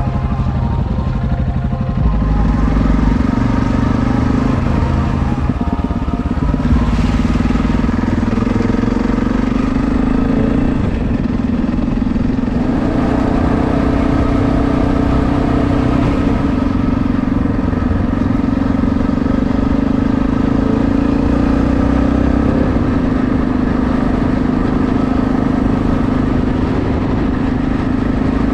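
Yamaha Ténéré adventure motorcycle's engine running at a steady cruise, heard from the bike's onboard camera, with no sharp revving.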